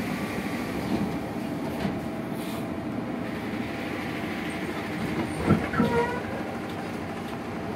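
Riding noise inside a JR 205-series electric commuter motor car under way: the steady rumble of wheels on rail with a faint hum from the traction motors. About five and a half seconds in come a couple of knocks and a brief squeal.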